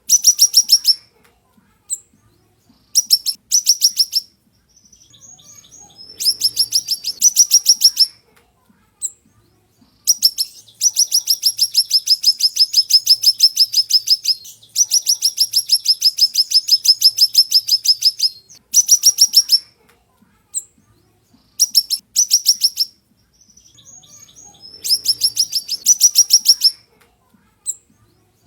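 A siri-siri songbird singing in sharp, high-pitched trills: runs of quick repeated chirps, about eight a second, that last one to four seconds each and are broken by short pauses.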